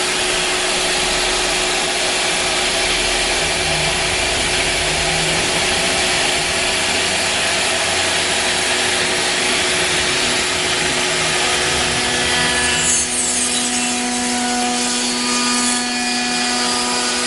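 Double-head CNC router's 6 kW HSD spindles cutting wood, a loud steady rasping cut. About thirteen seconds in, the cutting noise drops away and the spindles' steady whine with several held tones remains.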